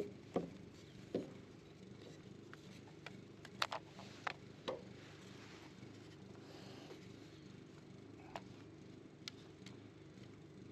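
Honeybees from a wild comb humming steadily, with scattered sharp snaps and clicks as rubber bands are stretched around the comb and wooden frame, several close together about four seconds in.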